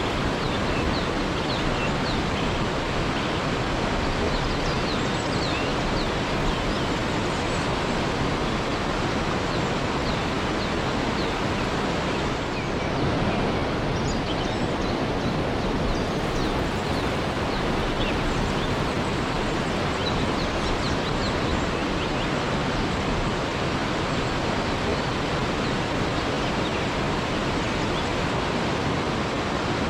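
Waterfall rushing: a steady, unbroken wash of falling water, with faint short high chirps scattered through it.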